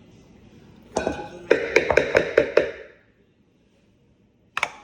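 Wire whisk knocking against a mixing bowl: a knock, then a quick run of about seven ringing taps at roughly five a second, and a sharp double knock near the end.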